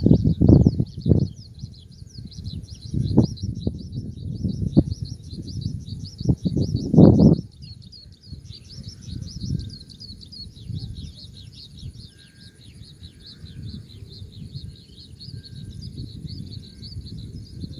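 Birds chirping in a dense, rapid run of short falling notes, with a steady high-pitched pulsing whine above them. Low gusty rumbles come and go, loudest in the first seven seconds.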